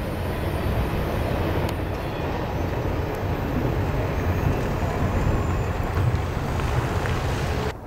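Freight train led by a Norfolk Southern diesel locomotive approaching: a steady low rumble of the engine and rolling cars, cutting off suddenly near the end.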